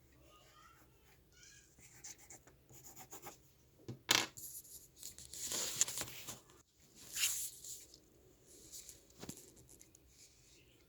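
Paper being handled and rustling, with faint drawing strokes early on, a sharp click about four seconds in and another near the end.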